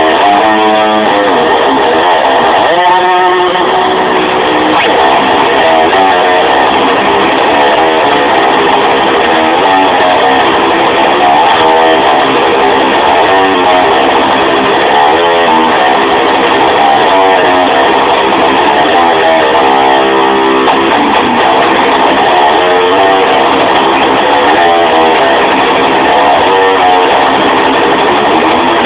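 Loud electric guitar playing, its notes sliding up and down in sweeping pitch glides, as in whammy-bar dive-bombs.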